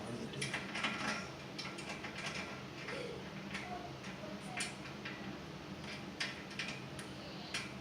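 Small hand tools clicking and scraping irregularly against the metal of a Hoffman #7 steam radiator valve as packing is worked down around its stem. A steady low hum runs underneath.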